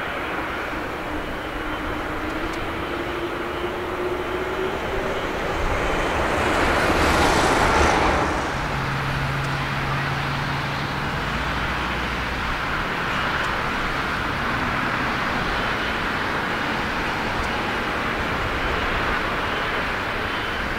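Jet airliner engines on landing approach, growing louder with a slowly rising engine tone as the plane comes in, loudest about seven seconds in as it passes close by, then dropping off abruptly to a steady lower rumble.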